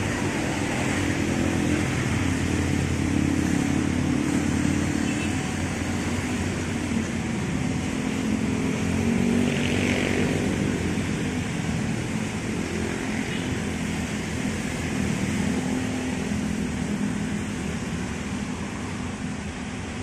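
Train passing with a diesel locomotive engine running as a steady low drone, easing slightly near the end.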